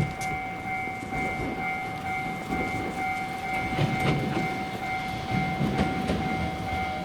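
Light-rail tram on street track: a low rumble with scattered wheel clicks, under a steady high electrical whine that holds one pitch.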